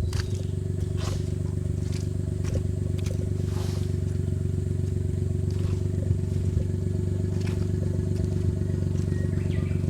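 Suzuki Jimny JA11's small three-cylinder turbo engine running steadily at low revs, with scattered clicks and knocks from the vehicle working over rough ground.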